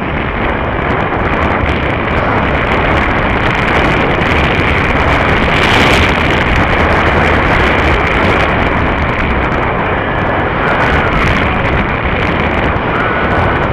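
Loud, steady rush of wind buffeting the microphone of a rider moving at speed on an electric unicycle, with traffic noise mixed in.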